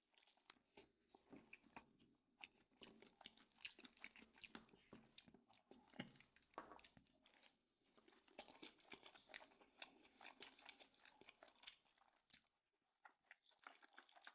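Faint chewing and mouth sounds of a person eating: many small irregular wet clicks and smacks.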